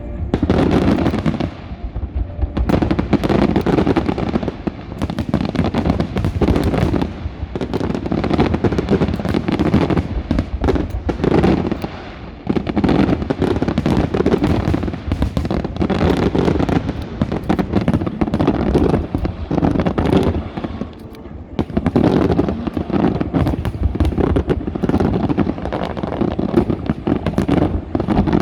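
Aerial fireworks display going off in a dense, continuous barrage of bangs and crackling bursts, with brief lulls twice before it picks up again.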